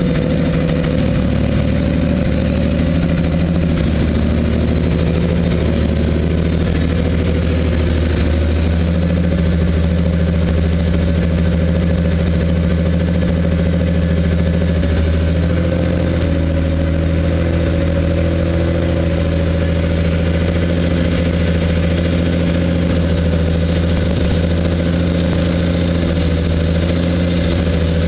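Lakes modified race car's carbureted engine idling steadily while it warms up after a cold start, the idle speed shifting slightly a few times.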